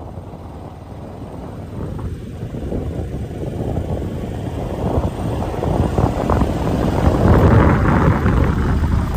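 Motor vehicle noise on a road: a dense rumble of engine, tyres and wind that grows steadily louder, loudest about three-quarters of the way in.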